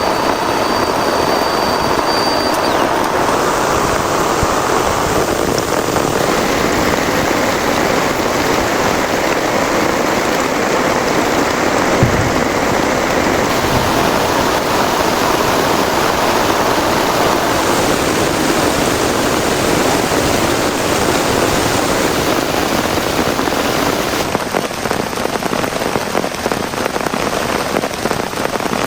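Heavy rain falling steadily, with one sharp knock about twelve seconds in.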